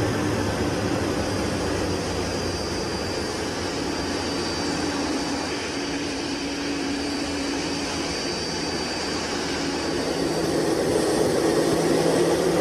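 Jet engines of a landing airliner running, a steady rushing noise with a high whine, growing louder near the end.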